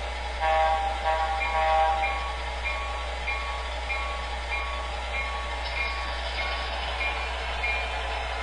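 MTH model locomotive's onboard sound system sounding a short horn blast about half a second in, followed by its bell ringing steadily a little under twice a second, over the low hum of the idling engine sounds.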